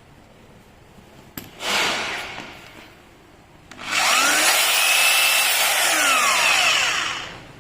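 Makita M8701 rotary hammer's electric motor being test-run: a short blip of the trigger, then a run of about three seconds in which the pitch rises as the motor spins up, holds steady, and falls away as it coasts down.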